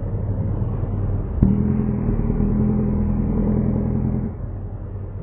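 Classic rally car engine running at steady revs, with one sharp knock about a second and a half in. The engine note drops about four seconds in as the car reaches the top of the jump ramp.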